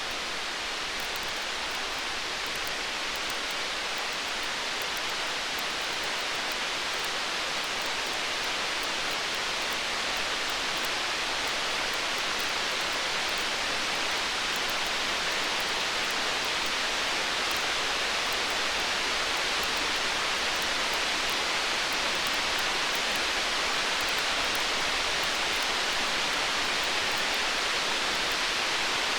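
Steady hiss of a stormy-night ambience that swells slowly, with faint fine crackles from a wood fire. No thunder rumble in this stretch.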